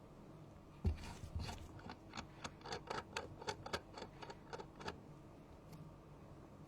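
A dull thump, then a quick run of small sharp clicks and taps at about four a second for about four seconds, like small parts and tools being handled on a workbench during a phone repair.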